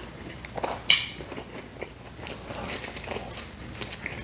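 A mouthful of pizza being chewed close to the microphone, with scattered short crunches; the loudest crunch comes about a second in.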